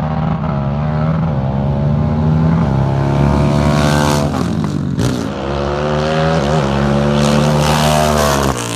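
Sport ATV engines revving hard under acceleration. Their pitch climbs and drops back several times as they shift up through the gears.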